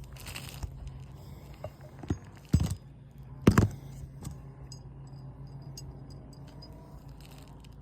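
Metal tool clinking and scraping against roof nails as they are pried out from under an asphalt shingle, with a few sharp knocks, the loudest about three and a half seconds in.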